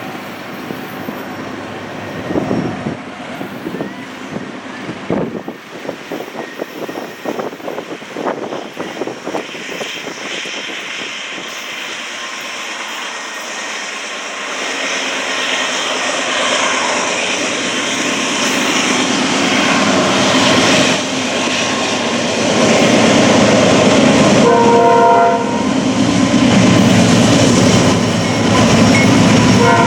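Norfolk Southern 4000, a GE AC44C6M diesel locomotive, approaching slowly, its engine and the train's rumble growing louder through the second half. Its Nathan P5A horn sounds a short chord about 24 seconds in and again right at the end.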